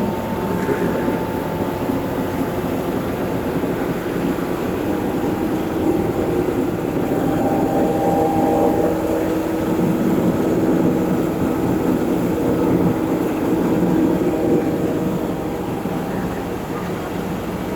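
Heavy diesel truck machinery at a concrete pour running steadily, with a hum and whine that grow a little stronger about six seconds in and ease near the end.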